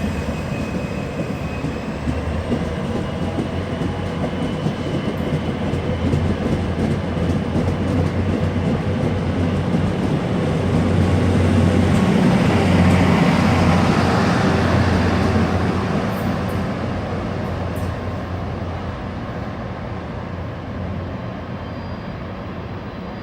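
Locomotive-hauled passenger train pulling away from a station and passing by, with a low hum and a whine that climbs slightly as it gathers speed. The sound swells to its loudest about halfway through as it goes past, then fades away.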